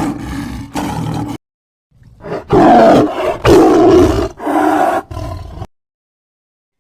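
Lion roaring: a short growl at the start, then after a brief gap a long, loud roar lasting about three seconds that cuts off suddenly.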